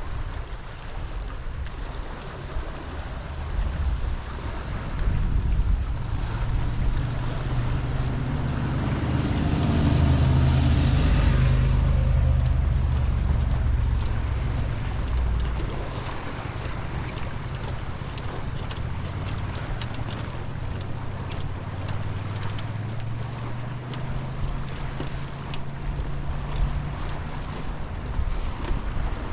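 An engine hum grows louder, peaking about ten to twelve seconds in with a rushing hiss, then carries on more steadily, over wind noise on the microphone.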